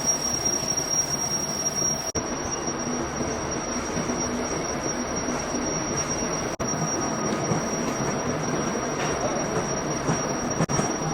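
Machining noise: metalworking machinery running with a steady high-pitched whine over a dense, noisy din, broken by a few brief dropouts.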